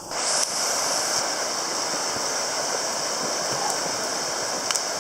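River in flood after heavy rain, rushing steadily and carrying broken-up ice floes. The sound jumps louder just after the start, then holds at a steady level.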